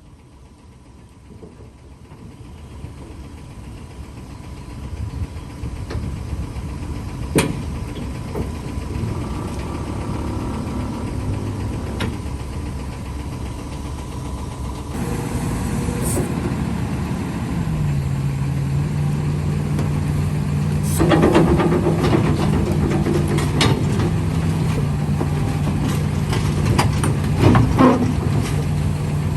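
Heavy earthmoving machine's engine running and growing gradually louder, with a run of sharp metallic clanks and knocks in the last several seconds.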